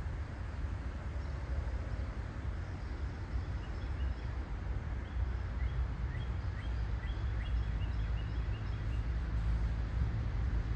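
Steady rain with the low rumble of a train on the line, the rumble growing slightly near the end. Birds chirp a few times in the middle.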